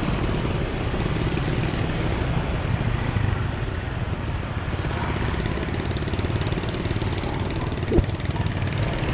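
Motorbike engine running steadily while riding, with a brief sharp sound near the end.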